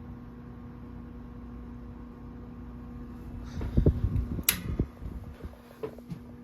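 Antique Mathes Cooler six-blade box fan running on a low speed with a steady electric buzz. The buzz comes from the speed coil and motor, which would be quiet if varnished. About four seconds in come a short stretch of rumbling thumps and a sharp click.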